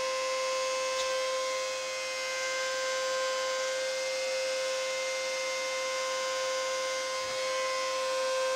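Electric motor running at a steady pitch: a constant whine with overtones over an even rushing hiss, with a faint tick about a second in.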